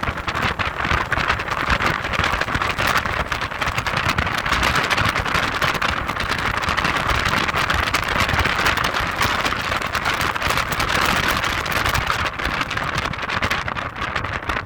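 Heavy wind noise on the microphone of a moving Audi TT: a steady rushing hiss with rapid crackling flutter, and some low rumble underneath.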